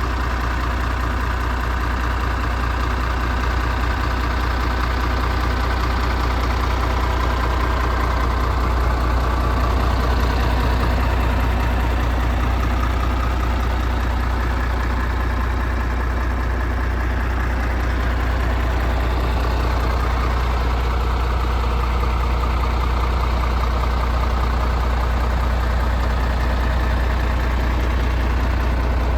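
MAN TGX 26.470 tractor unit's 12.4-litre straight-six diesel idling steadily, a constant low hum with no revving.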